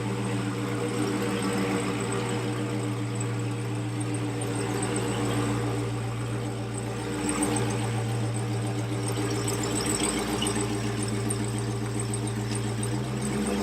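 Dodge Charger Hellcat's supercharged 6.2-litre Hemi V8 idling steadily through its stock exhaust, the idle dropping slightly in pitch a couple of times.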